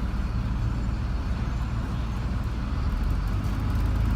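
Steady low rumble of a car's engine and road noise while driving in traffic, with the deep rumble growing stronger about three seconds in.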